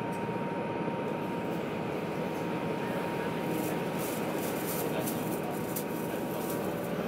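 Steady running noise of a train, with a run of faint, sharp crackling clicks from about three and a half seconds in.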